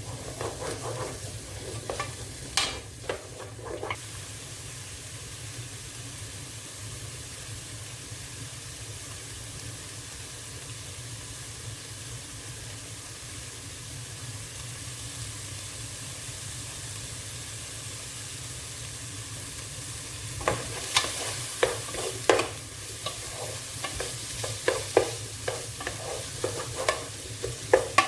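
Onions, celery and garlic sizzling steadily as they sauté in butter and oil in a slow cooker's pan. A utensil stirring makes quick clicks and knocks against the pan in the first few seconds and again through the last several seconds.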